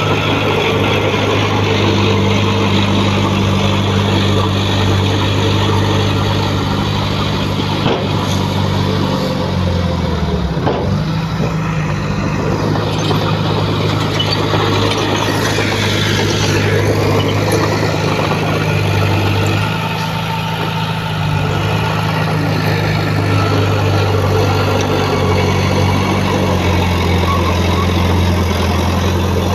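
Heavy diesel engine of earthmoving machinery running steadily; its pitch dips briefly about ten seconds in and then recovers.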